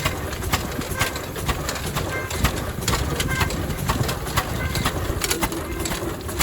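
Ruston diesel stationary engine running steadily: a low rumble with sharp, regular clicks about twice a second.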